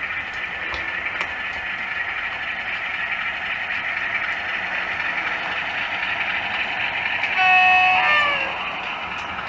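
OO gauge model locomotive with a DCC sound decoder running on the layout, giving a steady running sound through its small speaker with faint clicks. About seven seconds in it sounds its horn: one loud held note for about a second that bends downward as it stops.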